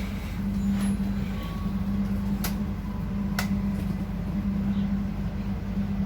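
Steady low hum inside a passenger train carriage, with two sharp clicks about a second apart midway.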